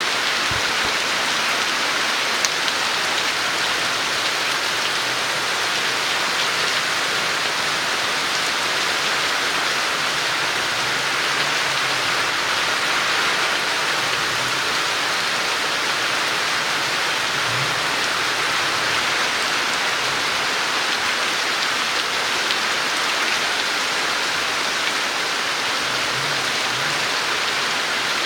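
Tropical-storm rain pouring steadily, a dense, even hiss of downpour.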